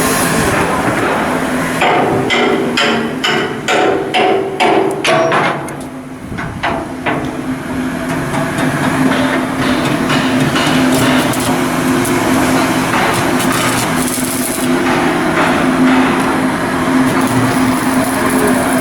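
A hammer striking steel in a shipyard: a quick run of ringing blows, about three a second, for about five seconds. Steady machinery noise with a low hum follows.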